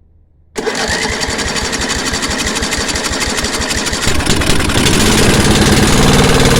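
10 HP Briggs and Stratton petrol engine firing up suddenly about half a second in on petrol poured into the intake by hand, running rough and pulsing, then steadier and louder from about four seconds in. It will not start on its own fuel supply, only on petrol poured down there.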